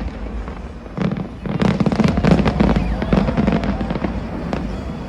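A fireworks display going off: rapid volleys of bangs and crackling, densest in the middle, over a steady low rumble.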